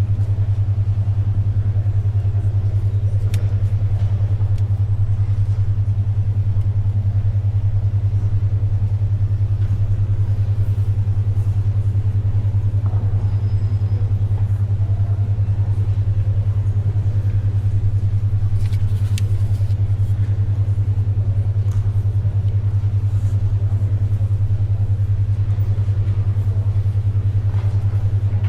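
A steady low electronic hum, pulsing rapidly and evenly: a 10.2 Hz alpha brainwave tone. Underneath, faint library ambience with a few soft paper and pencil sounds.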